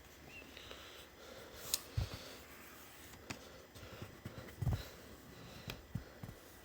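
Quiet room with scattered faint clicks and two soft low thumps, about two seconds in and again near the five-second mark.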